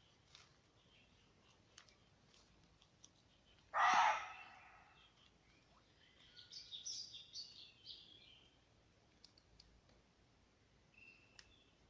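Forest birds chirping in a run of short high notes, with faint scattered clicks. About four seconds in comes one sudden, loud, harsh cry that fades over about a second, the loudest sound here.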